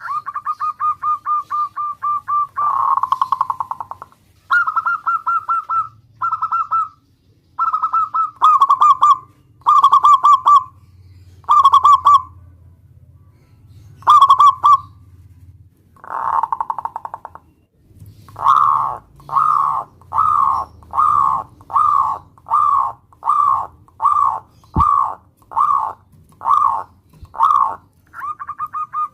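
Zebra dove (perkutut) cooing: phrases of rolling, trilled coos broken by short pauses, then, from about two-thirds of the way through, a steady run of short coos at roughly one a second.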